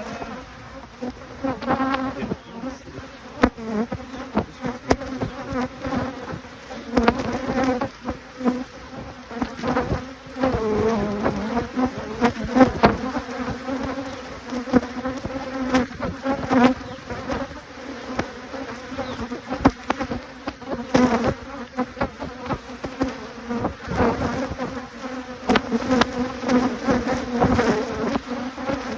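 Honeybees buzzing around an opened hive, a steady low hum with a second, higher band that swells and fades as the bees fly close. Scattered short knocks and clicks run through it.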